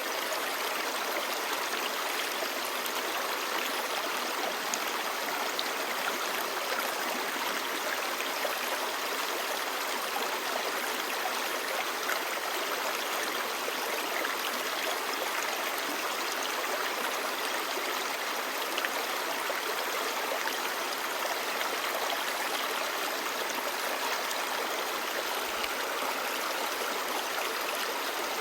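Clear stream babbling: a steady, even rush of flowing water.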